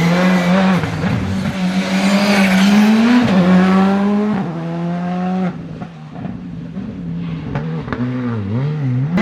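Skoda Fabia R5 rally car's turbocharged four-cylinder engine accelerating hard, the revs climbing and dropping sharply at each upshift, twice. About halfway through the sound cuts to a quieter, duller engine note whose revs dip and rise again twice near the end.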